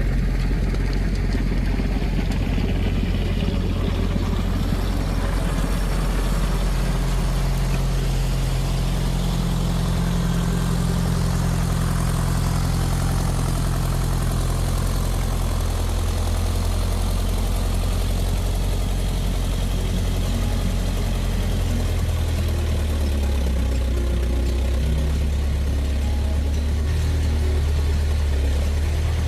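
Belarus 102 tractor engine running steadily while powering an 8-foot snowblower, its pitch shifting slightly about three-quarters of the way through.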